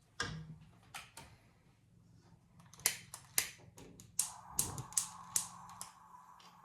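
A series of sharp clicks and taps, with a steady hiss starting about four seconds in.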